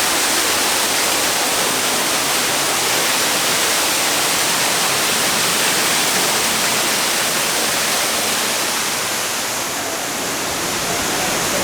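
Loud, steady rush of falling water, an even hiss that starts and stops abruptly.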